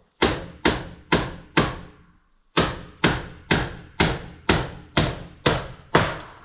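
Hammer driving a nail into wood: four blows, a pause of about a second, then eight more blows at about two a second.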